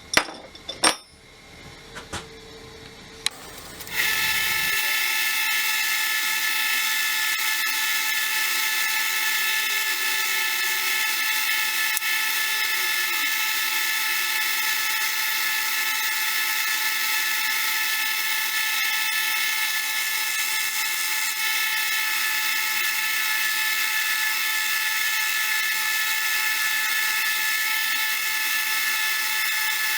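A few clicks and knocks, then about four seconds in a belt sander starts up and runs with a steady high-pitched whine, used to polish the metal of a hand tool.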